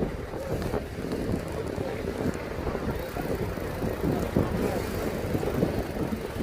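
Wind buffeting the microphone while riding a mountain bike, an uneven low rumble that swells and dips.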